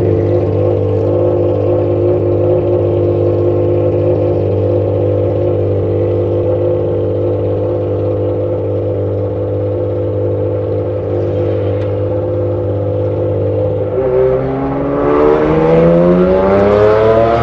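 Porsche 996 RSR race car's flat-six engine running steadily at low revs, heard from inside a following car. About fourteen seconds in it revs up, its pitch rising over a couple of seconds as the car accelerates away.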